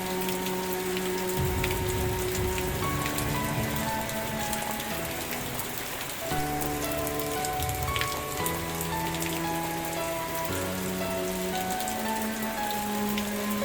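Steady rain pattering on a surface, with sharp individual drops, over soft background music of slow, held low notes that change every second or two.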